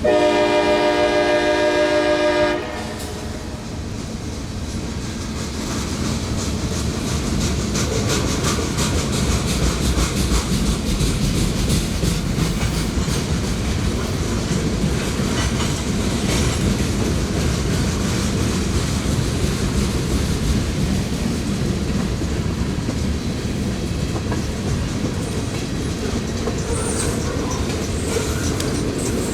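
Locomotive air horn sounding one steady blast of about two and a half seconds, a chord of several tones, then a passing train's wheels clattering over the rail joints.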